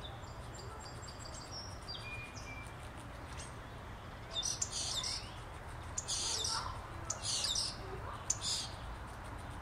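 Wild birds calling: a run of several short, high chirping calls about halfway through, over a steady low outdoor rumble.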